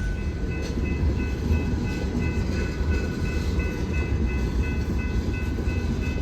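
Freight train of loaded scrap gondolas rolling past with a steady low rumble, while a grade-crossing bell rings about three times a second.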